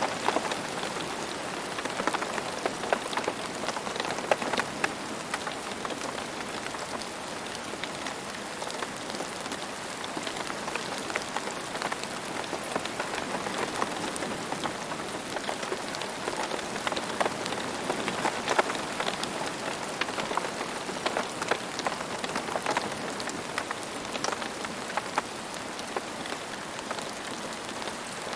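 Steady rain falling on the ground, a continuous hiss with many individual drops pattering through it.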